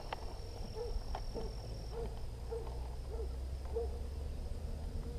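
An animal calling in the distance in a steady repeated rhythm: short, evenly spaced calls at about three every two seconds. Two faint clicks come early on.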